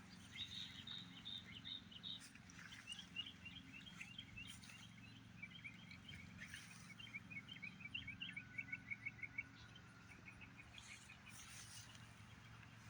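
Songbirds singing: repeated series of short, high chirps and trills. The run of notes gets faster and louder about nine seconds in, then stops.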